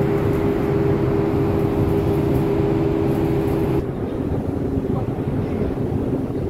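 Steady drone of a passenger ship's engines and machinery with a constant hum, which changes abruptly about four seconds in to a quieter, lower hum.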